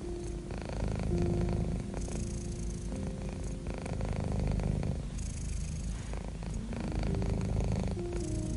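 Domestic cat purring close up: a continuous, low, pulsing rumble.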